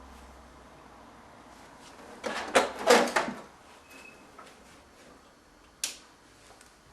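HP LaserJet 1150 laser printer making a burst of loud clattering for about a second, a little over two seconds in, and one sharp click near the end, over a faint steady hum. The noise comes from an unknown internal fault in the dead printer.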